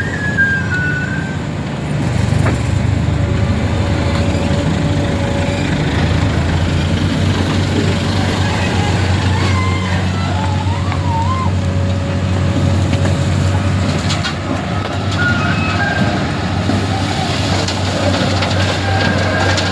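Heavy vehicle engine running steadily, a low even drone, with no change in speed.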